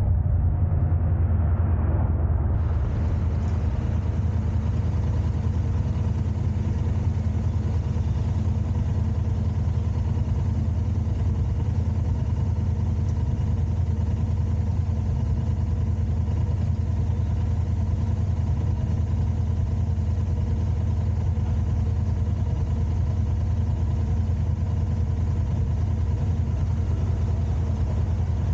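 Car engine running at a steady pitch, a low even hum with road and cabin rumble that does not rise or fall.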